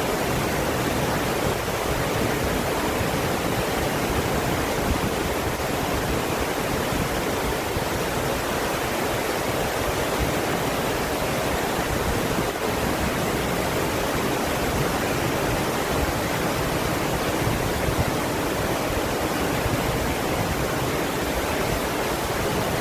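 Waterfall pouring steadily, a constant even rush of falling water with no changes in level.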